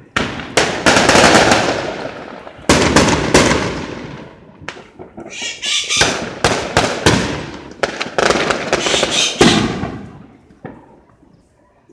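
Rojões, Brazilian skyrocket firecrackers, going off in four rapid volleys of sharp bangs. Each volley dies away over a second or two.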